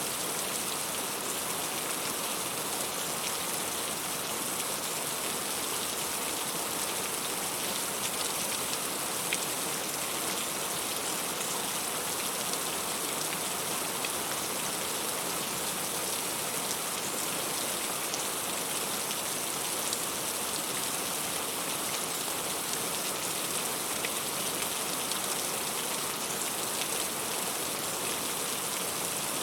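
Heavy rain falling steadily, with many small drop impacts pattering on leaves and fruit.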